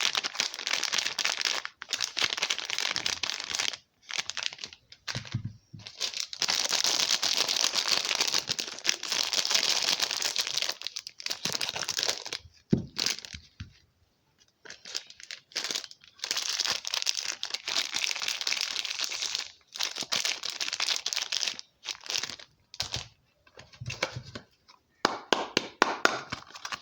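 Soap wrapping being handled and unwrapped: packaging crinkling and tearing in long spells, broken by short pauses, with scattered sharp crackles.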